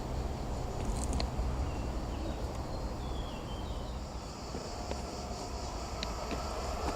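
Steady outdoor background of insects buzzing over a low rumble, with a few faint bird chirps. About five seconds in, a faint steady whine begins and slowly grows as a train approaches.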